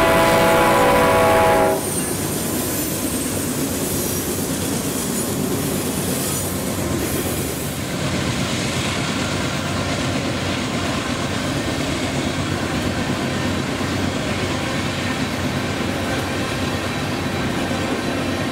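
A locomotive horn sounds a steady chord that cuts off suddenly about two seconds in. Then the train rolls past at speed with a continuous rumble and clickety-clack of wheels on rail, and a higher hiss of wheel noise over the first several seconds.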